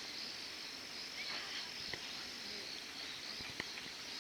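Steady high-pitched chorus of insects, with a few faint clicks scattered through it.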